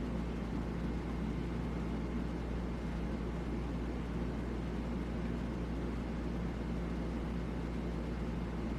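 Steady low hum with an even hiss, unchanging throughout, with no distinct events.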